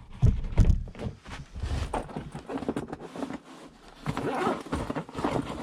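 Irregular rustling, knocks and crunching from a person handling gear and moving about in the snow.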